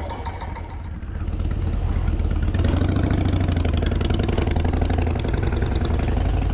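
Motorcycle engine running, growing louder about a second in and then holding steady.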